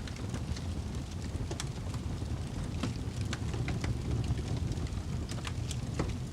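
Wood fire burning in a fireplace: a steady low rumble of flames with irregular sharp crackles and pops, one of the loudest near the end.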